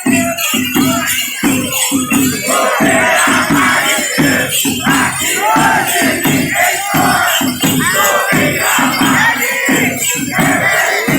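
Congada percussion: drums beating a steady, driving rhythm with rattles and jingling shakers. Voices sing and call out over it.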